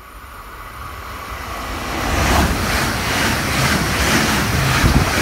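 A passenger train approaching and passing close by at speed: the rush and rumble of its wheels on the rails swells over the first two seconds, then stays loud with a pulsing beat about twice a second.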